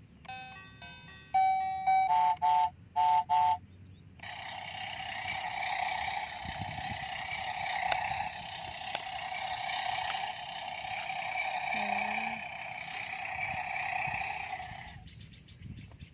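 Electronic sound effects from a battery-powered toy truck: a quick run of short beeping notes, then a long buzzing electronic tone lasting about eleven seconds that stops shortly before the end.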